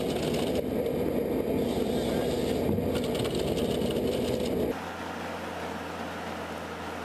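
Machinery running steadily with a strong hum, cut off abruptly a little under five seconds in and replaced by a quieter, even running noise.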